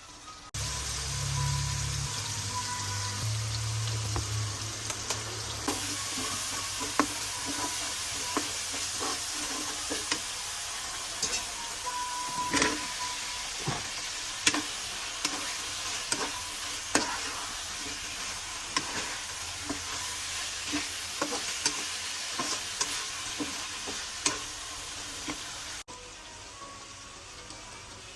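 Food sizzling as it fries in hot oil in a pan, with a utensil clicking and scraping against the pan every so often. The sizzle starts about half a second in and cuts off sharply near the end.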